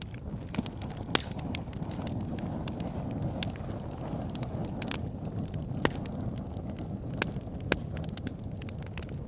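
Wood fire burning in a fireplace: a steady low rumble of flames with irregular crackles and a handful of sharper pops from the logs.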